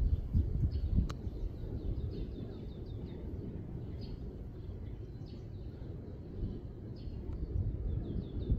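Small bird chirping in quick runs of high notes, repeated every second or two, over a low steady rumble; a single sharp click about a second in.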